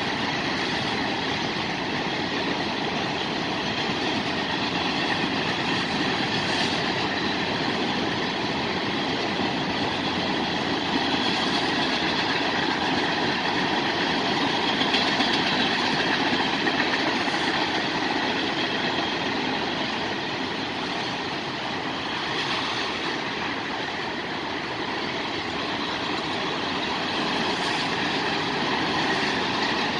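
Freight train cars, tank cars among them, rolling steadily past: a continuous rumble and rush of steel wheels on rail.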